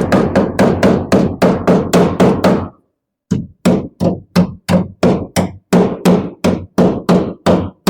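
Hammer blows on a car body's steel sheet metal, about four a second, each strike ringing briefly. The blows come in two runs with a short pause about three seconds in.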